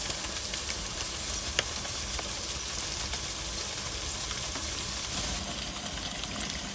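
Steady hiss of water spraying from an ice volcano's vent, with scattered small ticks and one sharper click about a second and a half in.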